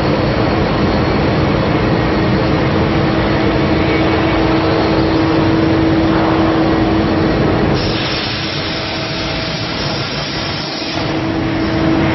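CNC plate-cutting machine's torches cutting steel plate: a loud steady rushing hiss with a steady hum under it. About eight seconds in the hum drops away and the hiss turns thinner and higher for a few seconds, then the hum returns.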